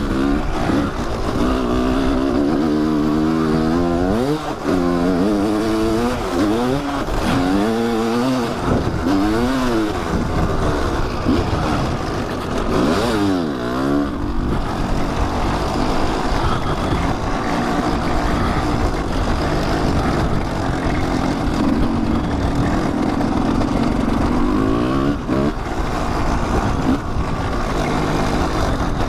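Kawasaki dirt bike engine being ridden off-road, revving up and falling back over and over through the gears in the first half, then running at a steadier pitch.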